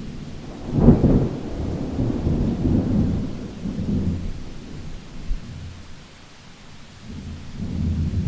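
Thunder over steady rain: a sharp clap about a second in, rolling into a long low rumble that fades, then a further swell of rumble near the end.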